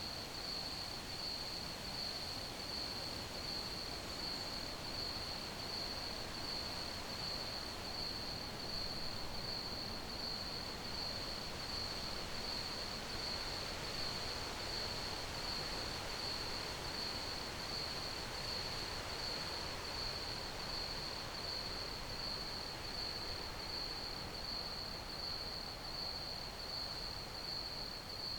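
Crickets chirping in a steady, evenly pulsing high trill over a constant background hiss.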